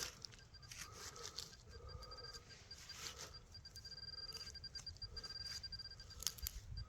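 Digging into soil by hand at a metal-detecting target: irregular scraping and tearing of dirt and roots, over a faint, steady, pulsing high electronic tone.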